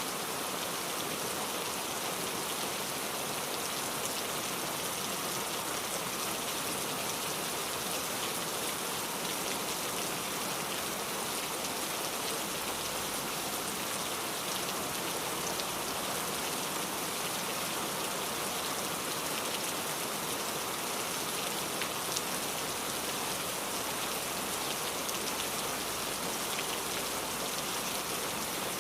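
Steady rain falling, with fine drop patter over an even hiss that barely changes.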